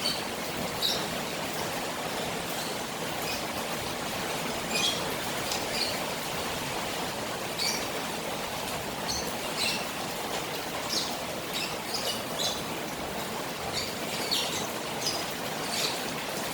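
Rain falling on a koi pond: a steady hiss of water, with short high-pitched sounds scattered through it.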